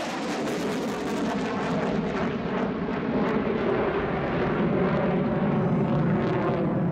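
Boeing 777-300ER's two GE90-115B turbofan engines, a steady jet roar from the arriving airliner.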